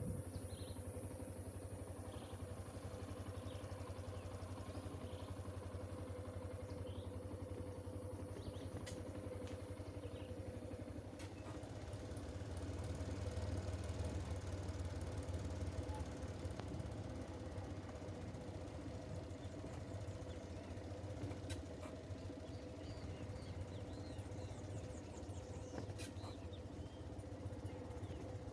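An engine running steadily at an even speed, a low hum with a constant higher tone over it. A high, steady hiss stops about a third of the way through, and a few faint chirps and clicks sit over the engine.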